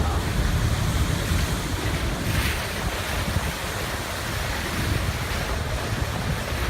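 Wind buffeting the microphone over the wash of ocean waves and surf, with a short hiss about two and a half seconds in.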